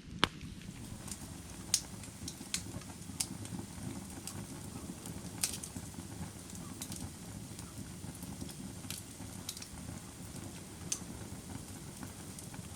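Firewood fire burning with a steady low rumble and scattered sharp crackles and pops, coming irregularly, the loudest two near the start.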